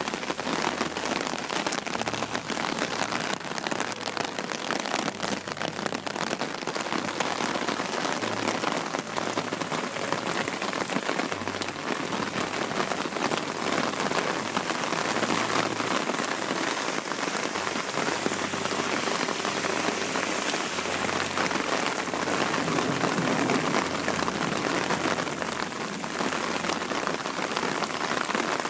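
Heavy rain falling steadily and pattering on a transparent plastic umbrella held overhead, a dense, even crackle of drop impacts.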